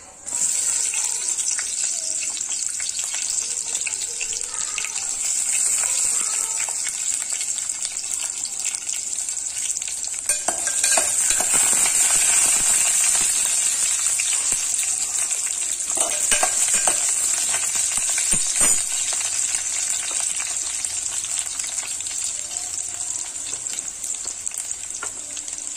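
Shallots, garlic and carrot pieces frying with whole spices in hot oil in an aluminium pot, a steady sizzle that starts suddenly and grows louder about ten seconds in. A few short knocks sound against the pot as it is stirred.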